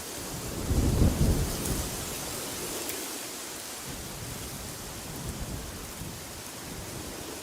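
Steady rushing wind, with a loud, deep gust surging about a second in.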